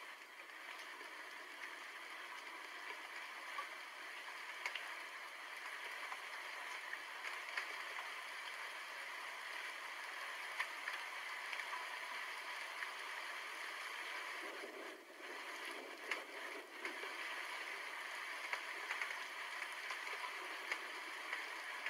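Steady rain falling, a dense hiss with many small drop ticks through it, briefly dipping about fifteen seconds in.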